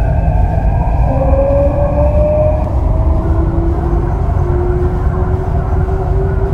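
MTR Kwun Tong line C-Train electric multiple unit accelerating, with a heavy running rumble under several thin electronic whines that rise slowly in pitch and step to new notes: the traction inverters and motors under power.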